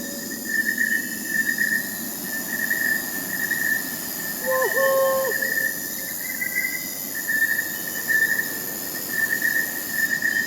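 Crickets chirping in a steady pulsing chorus, with other insects trilling higher, and a single owl hoot about four and a half seconds in.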